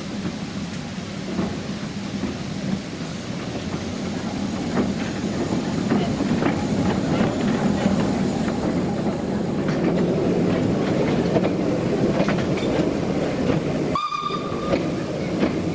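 Narrow-gauge steam train running, with steady rumble and scattered clicks of the wheels over the rail joints, growing slightly louder. A short, high whistle note sounds near the end.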